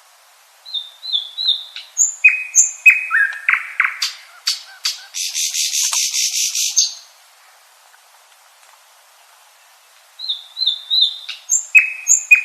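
Common nightingale singing two phrases separated by a pause of about three seconds. Each phrase opens with a few short, high, down-slurred notes, then louder repeated whistled notes. The first phrase ends in a rapid buzzing rattle lasting about two seconds.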